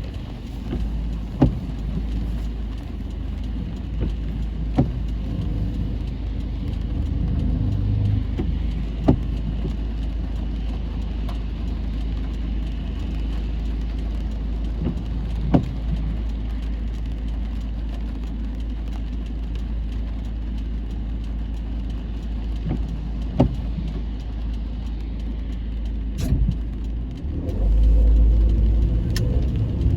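Car driving in heavy rain and strong wind, heard from inside: a steady low rumble of road and wind noise with a few sharp taps at irregular moments. The rumble grows louder near the end.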